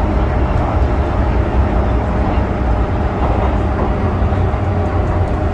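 MTR M-Train electric multiple unit running, heard from inside the car: a steady low rumble of wheels on rail with a faint even hum from the motors.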